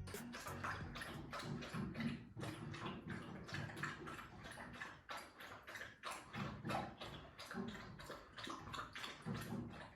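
A quick, fairly even run of crunching steps on a park path, about four a second: people and dogs walking. A low hum comes and goes beneath them.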